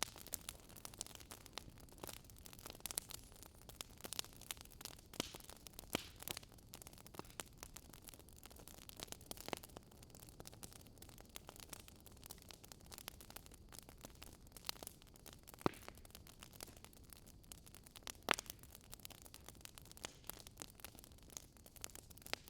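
Wood fire crackling: irregular sharp pops and snaps, a couple of them louder, over a faint steady hiss.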